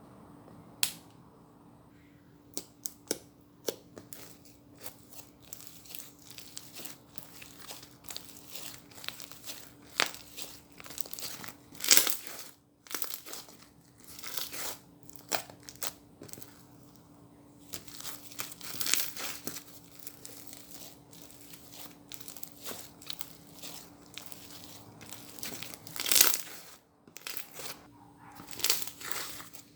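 Milk slime mixed with foam being kneaded and squeezed by hand, giving dense, irregular crunchy crackles and pops, with a few louder squishes along the way. A faint steady hum sits underneath.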